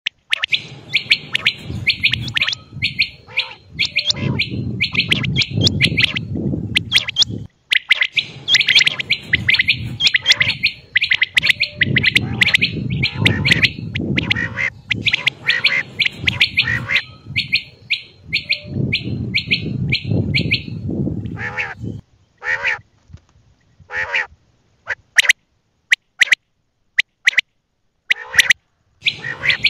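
Quail calling in fast runs of repeated chirps over a low rumbling background noise. From about two-thirds of the way through, the calls come singly with silent gaps between them.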